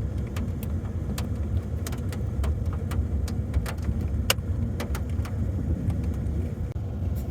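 Vehicle rolling slowly down an icy hill, a steady low rumble with scattered sharp clicks and cracks, one louder crack about four seconds in.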